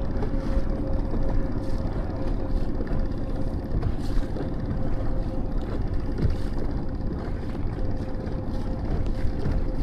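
Small boat's Tohatsu outboard motor running steadily at low cruising speed, a low rumble with a thin, constant whine over it.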